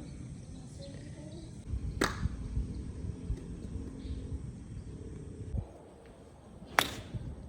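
Two sharp cracks about five seconds apart, the second the louder, over a steady low rumble.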